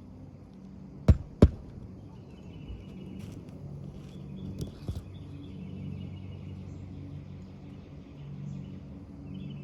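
Two sharp hammer strikes on roofing nails in asphalt shingles, about a second in and a third of a second apart, with a few lighter taps later. A low steady hum and faint bird chirps sit under them.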